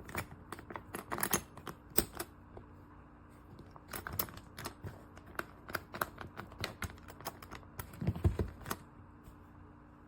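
Rapid, irregular sharp clicks and taps, like a keyboard being typed on or hard plastic being handled. They pause briefly about two seconds in, and a duller knock comes about eight seconds in.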